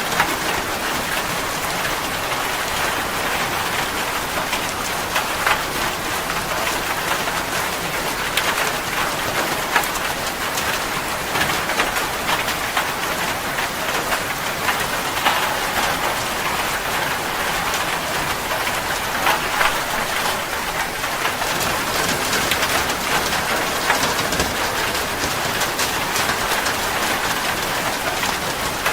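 Steady rain falling, with many separate drop taps heard through the constant hiss.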